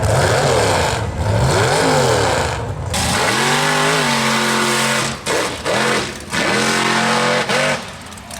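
High-horsepower mega truck engine revving hard. Its pitch swings up and down for the first three seconds, then holds high and steady, dipping briefly a few times as the throttle lifts.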